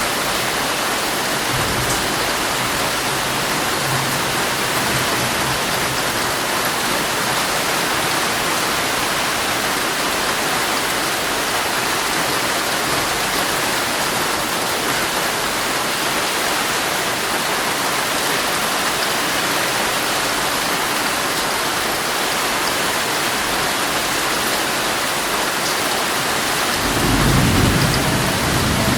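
Heavy rain drumming steadily on a tent's fabric, with a low rumble of thunder rising near the end.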